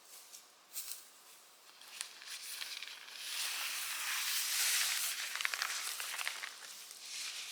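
Rustling with fine crackles, after a few soft clicks. It swells about three seconds in and fades near the end.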